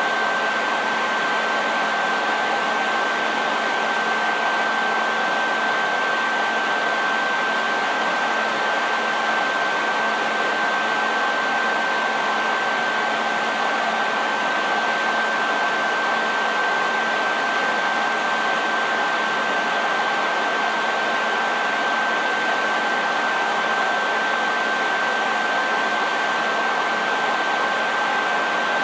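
Hair dryer running steadily: a continuous rush of air with a constant high whine from the motor and a fainter low hum underneath.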